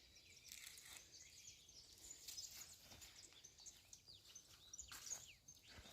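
Near silence, with faint scattered high bird chirps throughout.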